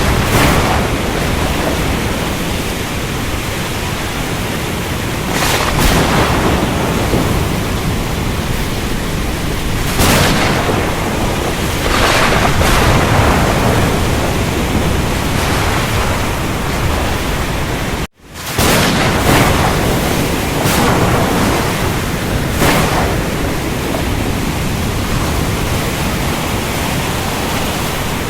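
Storm over the ocean: a steady roar of rain and surf, swelling every few seconds as waves break and thunder rumbles. About two-thirds through the sound cuts out abruptly for a moment and fades back in, like a splice in a looped recording.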